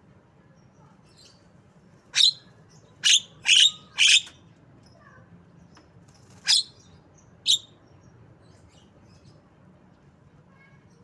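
Javan myna giving short, sharp, loud calls: four in quick succession, then two more a few seconds later. Faint low hum underneath.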